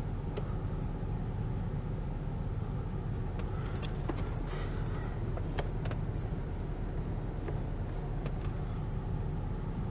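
Steady low rumble of the 2018 Nissan Murano's 3.5-litre V6 idling, with a few faint clicks.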